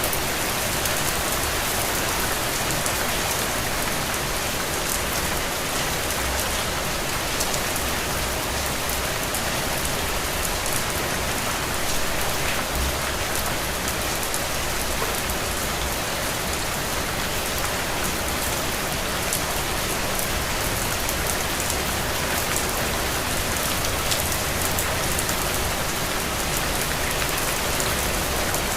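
Steady rain falling on a surface, a dense even hiss with many small drop ticks and no letup.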